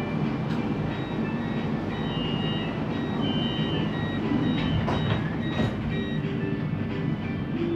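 Siemens Inspiro metro train running between stations, heard from inside the carriage: a steady rolling rumble of wheels on rail, with short high tones that come and go and a few sharp clicks about five seconds in.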